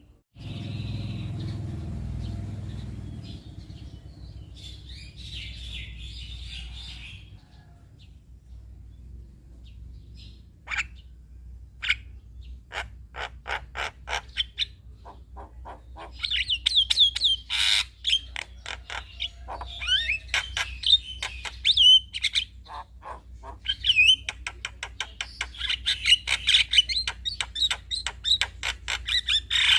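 Male Javan myna (jalak kebo) singing its varied song: a run of sharp clicks, then rapid whistled notes and harsh chatter that grow busier in the second half, over a low steady hum.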